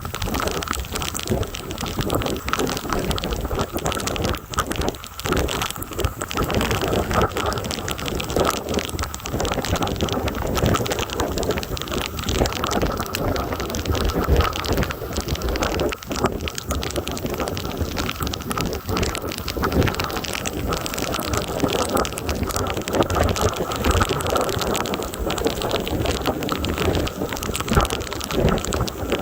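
Heavy thunderstorm rain pouring and spattering close to the microphone, with gusty wind rumbling on it and the loudness swelling and dropping.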